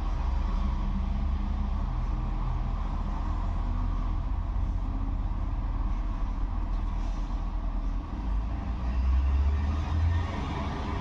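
71-628-02 tram running along the track between stops: a steady low rumble of wheels on rails with a few steady hums above it, shifting slightly about eight seconds in.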